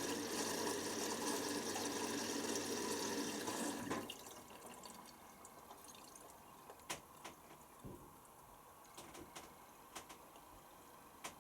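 Water rushing through a Hoover Nextra washer dryer with a low steady hum, cutting off abruptly about four seconds in; afterwards a few faint ticks and drips.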